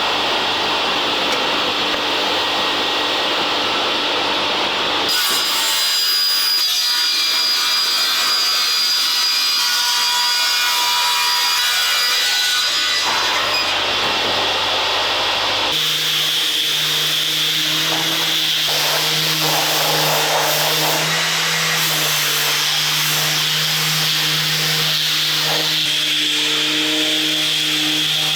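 Woodworking power tools working on wood in three back-to-back clips, each a steady loud noise that changes abruptly to the next about 5 and 16 seconds in. In the last clip a steady motor hum runs under the cutting noise.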